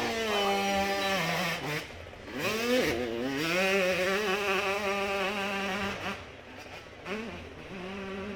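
Motorcycle engine revving hard on a hill climb. Its pitch sweeps up and holds three times, with short drops between as the throttle comes off and goes back on.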